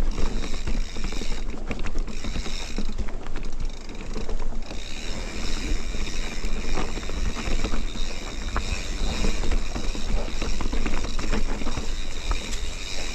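Mountain bike rolling over rough trail: tyres crunching on stones and frequent clicks and rattles from the bike, with wind rumbling on the microphone.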